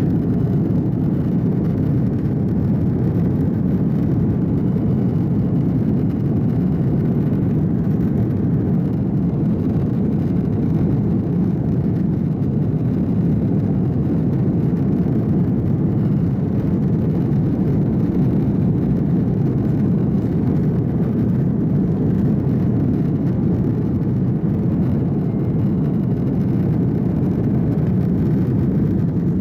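Steady low rumble of an Airbus A330's engines and rushing air, heard inside the passenger cabin as the airliner climbs out after takeoff.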